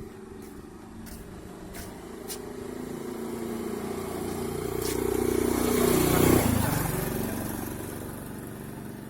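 A motor vehicle driving past on the road: its engine grows louder as it approaches, is loudest a little past halfway, then drops in pitch and fades as it moves away.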